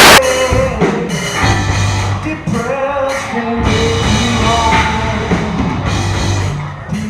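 A band's song playing, with a singer's voice over a drum kit. It opens with a brief, very loud burst of noise that cuts off in a moment.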